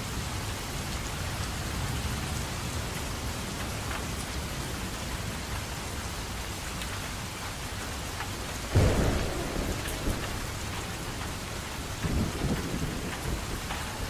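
Steady rain falling, with a sudden crack of thunder about nine seconds in that rolls away over a second or two, and more thunder rumbling near the end.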